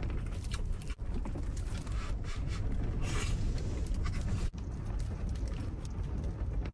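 Strong wind buffeting a small camper trailer, a steady low rumble, with faint scraping and rustling sounds mixed in.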